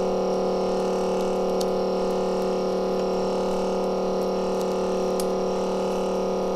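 Steady electrical hum of several fixed pitches from the screen separator machine running, with a few faint scattered ticks as the cutting wire works through the cracked glass.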